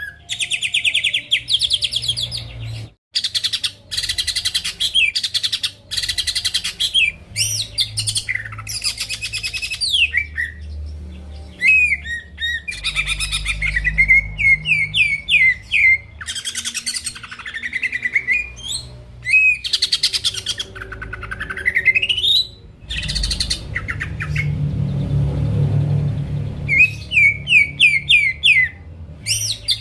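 Cucak ijo (green leafbird) singing a loud, varied song of rapid trills, quick chirps and rising whistles, phrase after phrase with short breaks.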